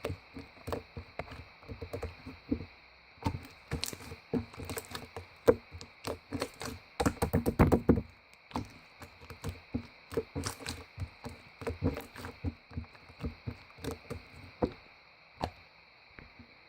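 Irregular knocks and clicks of objects being handled, with a dense clattering run about seven seconds in, over a faint steady high-pitched whine.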